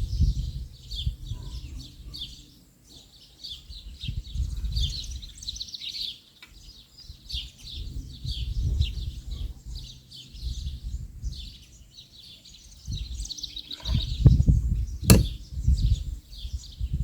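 Small birds chirping and calling steadily, over bouts of low rumble, with a single sharp click about fifteen seconds in.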